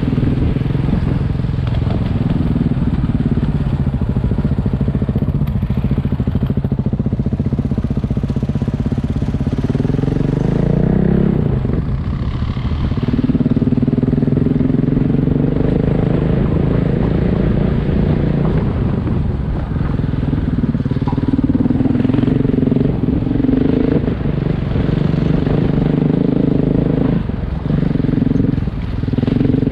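Single-cylinder adventure motorcycle engine running under way, its pitch rising and falling with throttle and gear changes, with brief dips about a third and two thirds of the way through.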